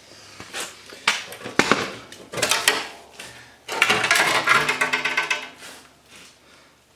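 Steel parts clanking and scraping as they are handled: several sharp metal knocks in the first three seconds, then a longer rattling scrape with a faint ring around the middle, dying away near the end.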